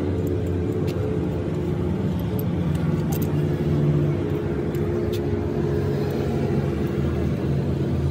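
An engine running steadily, with a slight shift in its note about three to four seconds in and scattered faint clicks.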